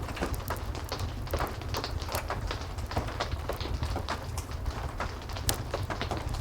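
Heavy rain mixed with a crackling wood fire: a steady wash of rain and a low rumble under frequent, irregular crackles and pops.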